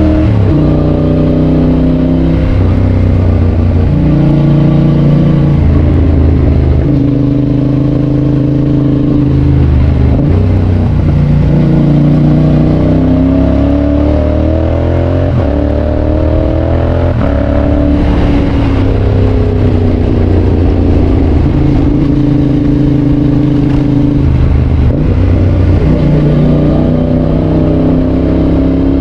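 Yamaha Tracer 7's 689 cc parallel-twin engine running through a GPR aftermarket exhaust while riding, its note rising and falling with the throttle and broken several times by quick gear changes.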